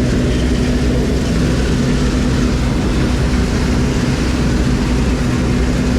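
Combine harvester running steadily while harvesting maize: a constant loud engine drone with a steady hum and no let-up.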